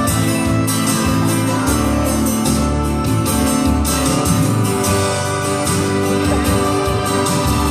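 Instrumental interlude of a Korean ballad played by a backing band, with a guitar leading over a steady beat and bass.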